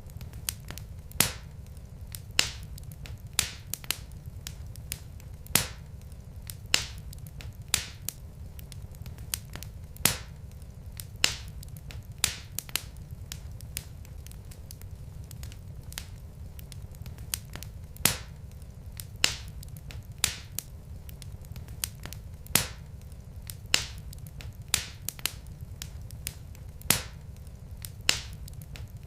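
Wood fire in a fireplace crackling: sharp pops from burning logs about once a second at uneven intervals, over a low steady rumble.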